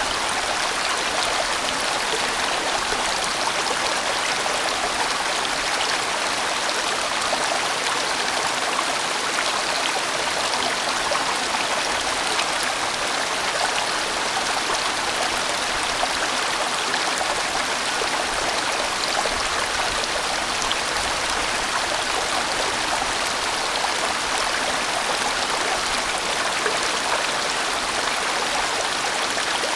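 A large mountain stream rushing over rocks: a steady, even rush of flowing water with no pauses or changes.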